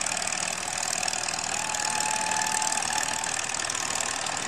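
Antique farm tractor engine running steadily.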